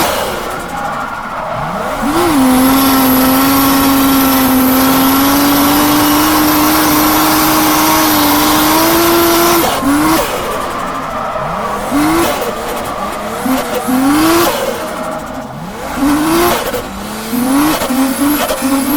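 Drift car's straight-six engine held at high revs for about ten seconds with tyres squealing, then a string of quick rises and drops in revs as the throttle is worked through the second half. The engine is misfiring.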